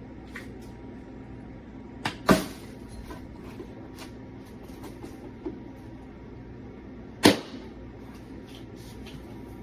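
A vacuum cleaner running steadily, with several sharp knocks over it; the loudest come about two seconds in and again about seven seconds in.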